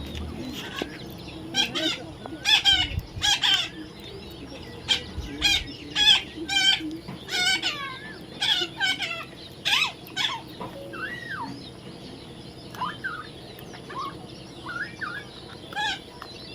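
Baby parrot calling: a quick series of harsh, rasping squawks for the first ten seconds or so, then a few softer whistled notes that slide up and down.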